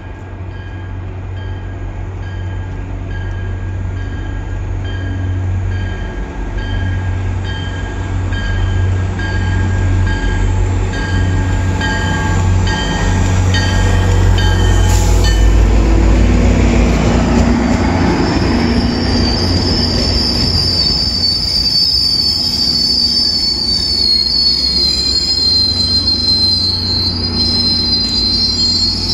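EMD GP40MC diesel locomotive's 16-cylinder two-stroke engine running as the train approaches and passes, growing louder to a peak about halfway through, while a bell rings in even strokes about one and a half times a second. After the locomotive passes, the passenger coaches roll by with a high, wavering wheel squeal.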